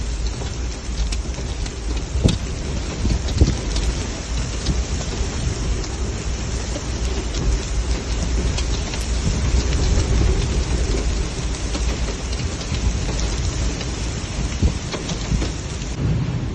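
Heavy rain pouring down steadily, with scattered sharp taps of drops about two and three and a half seconds in and a low rumble underneath.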